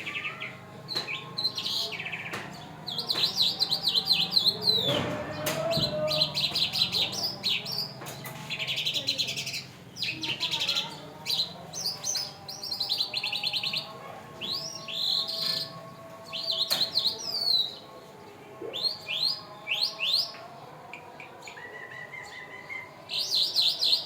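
Skylark ('irani jal') singing a long, varied song of rapid buzzy trills and chirps, phrase after phrase with short breaks.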